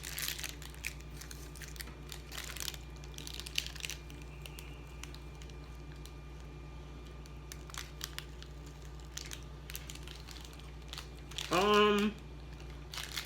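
Plastic snack wrapper crinkling and rustling as it is handled and opened, with scattered sharp crackles at first and then only faint rustles. Near the end comes one short, loud vocal sound.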